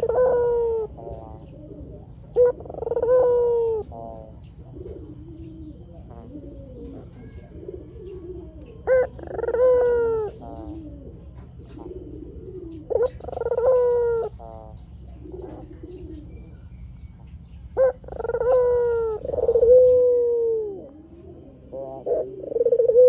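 Puter putih (white Barbary dove) cooing six times. Each call is a short clipped note followed by a longer rolling coo that falls slightly at the end, with softer coos between the calls.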